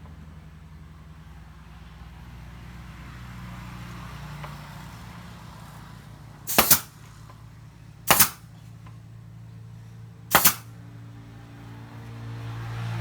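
Pneumatic brad nailer firing three shots into a wooden bed frame, each a sharp double crack, about a second and a half to two seconds apart, over a steady low hum.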